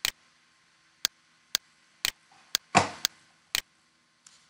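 A run of short, sharp clicks, mostly about half a second apart, with one louder knock about three seconds in.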